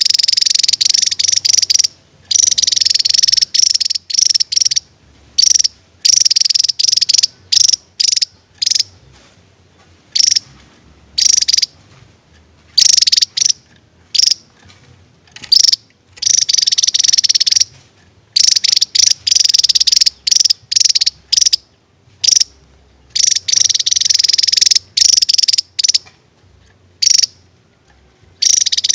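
Javan tesia singing its 'tembakan' song: loud, high-pitched, rapid trilled phrases, some lasting about two seconds, alternating with short sharp bursts and brief pauses.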